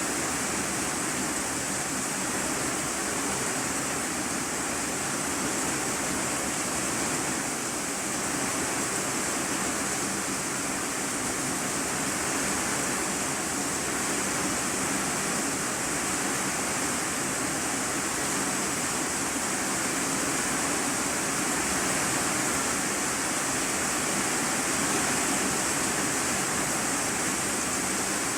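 Steady heavy rain drumming on an iron-sheet roof, heard from inside the room beneath it as an even hiss with no separate drops standing out.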